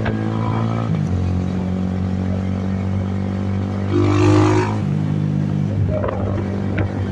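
Benelli TNT 25 motorcycle's single-cylinder engine running at a fairly steady speed, its pitch stepping down slightly about a second in. There is a louder rush of noise about four seconds in.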